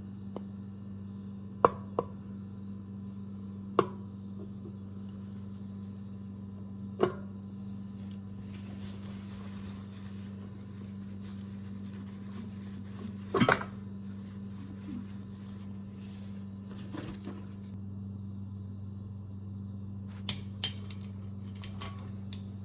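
Metal tools and small engine parts clinking and clanking on a workbench every few seconds as a small engine's valve train is put back together, over a steady low hum. The loudest clank comes about halfway through, with a quick cluster of clicks near the end.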